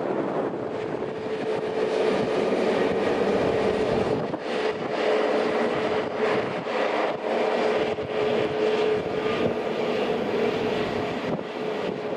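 Jet engines of an easyJet Airbus A320 running with a steady whine, with gusts of wind buffeting the microphone.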